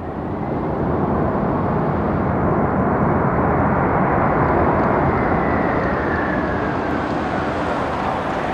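Boeing 747-400F's four turbofan engines on a landing approach, a loud jet roar swelling as the freighter passes close by, with a faint whine that drops slightly in pitch as it goes past.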